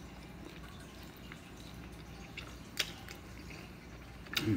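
Close-up wet chewing and lip smacks of a man eating a sauced chicken drumstick, with small clicks throughout and one sharper smack a little under three seconds in. A louder wet mouth sound comes near the end, over a steady low hum.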